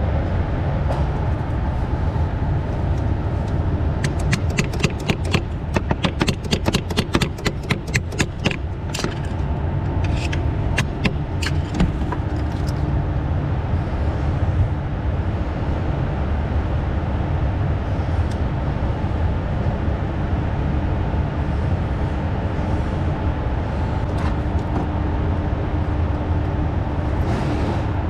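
Quick light metallic tapping, several taps a second for about five seconds, then a few scattered taps: a Torx bit or Allen key being tapped to knock the broken glow plug tip down through its hole in the cylinder head. A steady low rumble runs underneath throughout.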